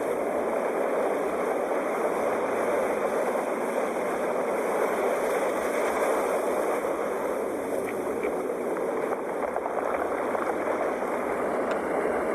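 Sea waves breaking and washing on a shore in a steady, continuous rush of surf.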